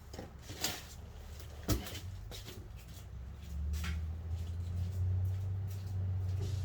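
A few sharp clicks and knocks of tools and parts being handled during brake work, then a steady low hum that sets in about halfway through and holds.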